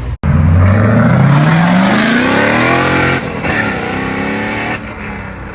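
Car engine accelerating hard, its pitch climbing steadily for about two and a half seconds. It then eases off and fades away near the end.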